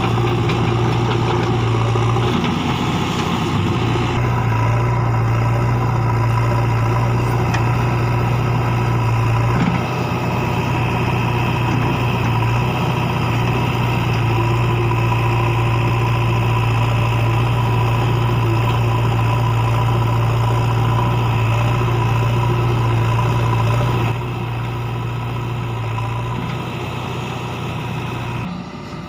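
Heavy diesel machinery running at a steady speed during loading. The level drops somewhat about 24 seconds in and again near the end.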